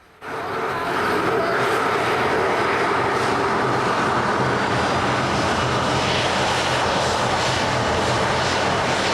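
Boeing 737-300 jet engines running at high power: a loud, steady rush with a low hum underneath. It starts abruptly just after the start, swells over the first second, then holds level.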